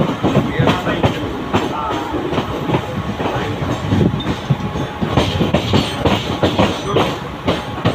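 Mumbai suburban local electric train running along the track, a steady rumble with wheels clacking irregularly over the rail joints.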